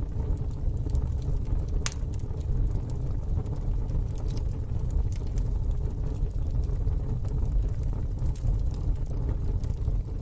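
Wood fire in a fire pit crackling, with scattered sharp pops (the loudest about two seconds in) over a steady low rumble.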